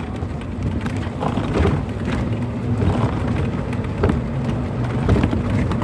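Golf cart running in the rain: a steady low rumble with rain noise over it.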